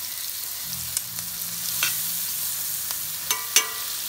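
Chopped garlic and onion frying in melted butter in a stainless-steel pot, a steady sizzle. A spatula taps and scrapes sharply against the pot a few times as they are stirred.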